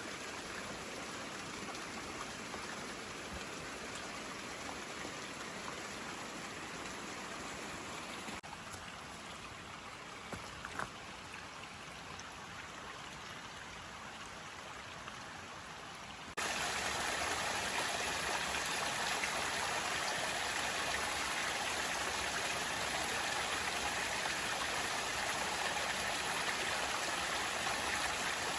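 Steady rushing water from a creek, an even hiss of flowing water. It drops slightly about a third of the way in, then jumps suddenly louder a little past halfway and stays there.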